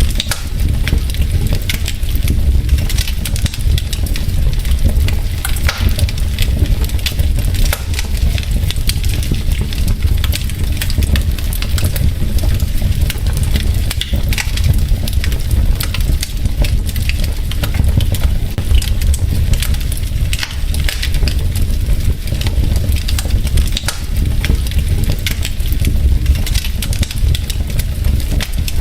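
Wood logs burning in a fireplace, crackling and popping continuously in many small irregular snaps over a steady low rumble.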